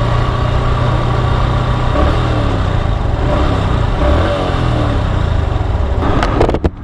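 Motorcycle engine running steadily while riding, under a steady rush of road and traffic noise, with a few brief knocks near the end.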